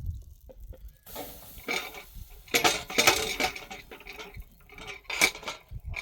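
Metal pots, dishes and utensils clinking and clattering in several irregular bursts, busiest in the middle and again near the end.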